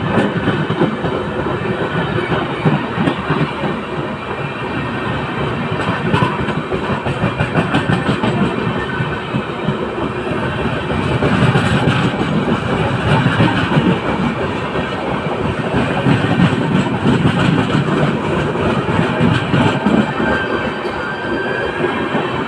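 Indian Railways train running along the track: steady, loud wheel-on-rail noise made of a dense run of rapid knocks, swelling a little partway through.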